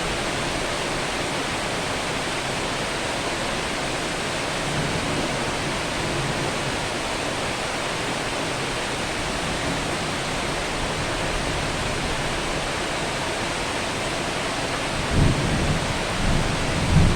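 Heavy rain falling steadily, with low rumbles of thunder swelling up near the end.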